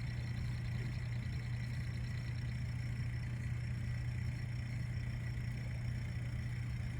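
A steady, unchanging low hum, like a distant engine or machine, with a thin, steady high-pitched trill over it. A faint, fast pulsing tick sits in the background for the first couple of seconds.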